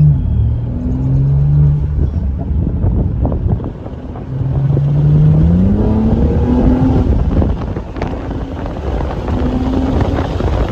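BMW M3 Competition's twin-turbo straight-six heard from inside the cabin under hard driving: the engine note holds, breaks off, then climbs in pitch about halfway through, over heavy road and drivetrain rumble.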